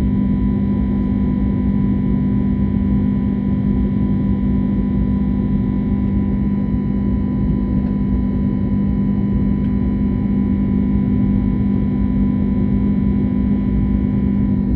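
Airbus A321neo cabin noise from its Pratt & Whitney geared turbofan engines: a steady loud drone with constant whining tones over a low rush of air.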